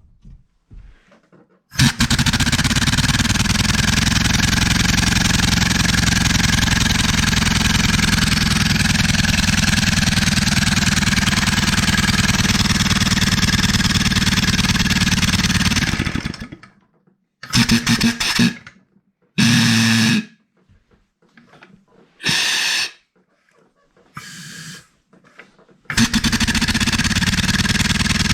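Old engine converted to run on compressed air, running fast: a steady hiss of exhausting air with rapid puffing pulses. It stops about sixteen seconds in, gives four short bursts of air, then runs steadily again near the end.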